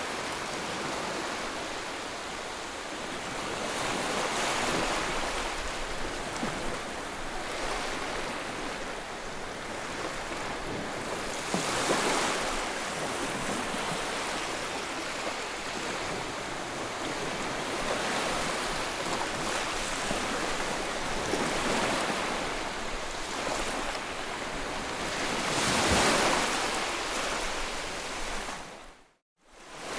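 Ocean waves breaking and washing in a steady rush of surf that swells and ebbs every several seconds. Near the end the sound briefly cuts out and comes back.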